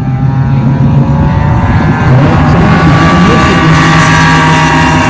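Outboard drag boat engines at full throttle on a drag run, a loud steady drone whose pitch climbs slowly.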